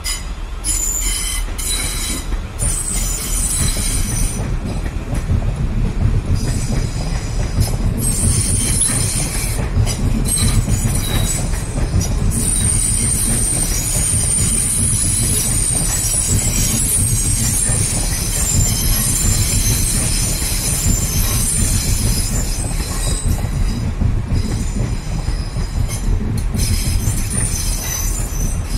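Electric trains at a station: Class 450 electric multiple units pulling out with a steady low rumble of wheels on rail while a Class 701 electric unit approaches and comes into the platform. A high-pitched wheel squeal from the rails sets in about eight seconds in and carries on for over ten seconds before fading.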